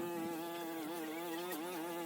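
A flying insect buzzing close by: one steady drone whose pitch wavers slightly.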